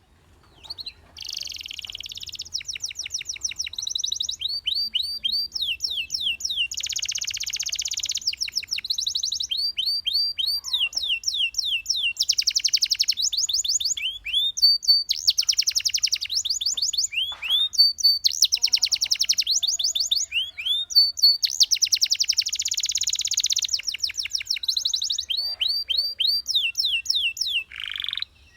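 Domestic canary singing a long, continuous song of fast repeated phrases: rapid high trills alternating with runs of quick sweeping whistled notes. It starts about a second in and stops just before the end.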